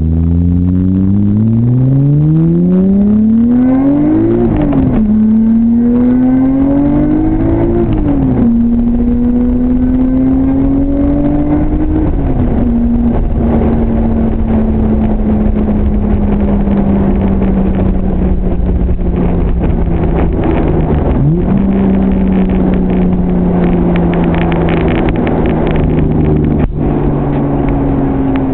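Nissan BNR32 Skyline GT-R's R34-sourced RB26DETT twin-turbo inline-six, tuned to about 450 PS, accelerating hard through the gears. Its pitch climbs and drops back at each of three upshifts, about 4, 8 and 12 seconds in. It then slowly falls as the car eases off, with a brief jump in pitch about 21 seconds in.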